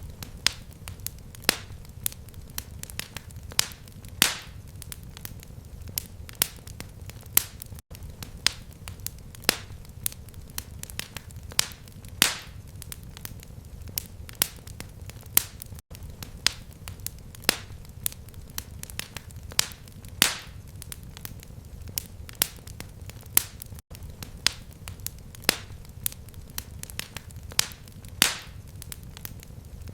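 Fireplace fire crackling: a steady low rumble with frequent sharp pops and snaps. The same stretch of crackle loops about every eight seconds, with a brief dropout at each join.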